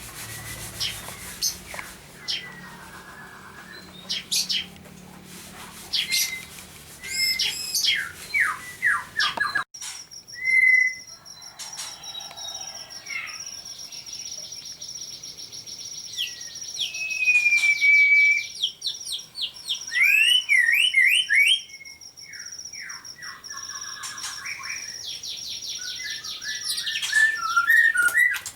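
Several songbirds chirping, trilling and whistling in quick overlapping phrases. From about ten seconds in, a steady high-pitched tone runs underneath the calls.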